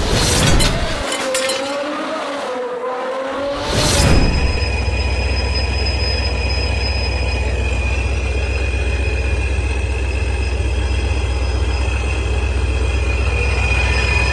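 A short intro sting of music and whoosh for about the first four seconds. Then a Chevrolet Corvette's 5.7 L LS6 V8, fitted with a ProCharger supercharger, idles steadily: a deep, even running sound with a thin steady high whine over it.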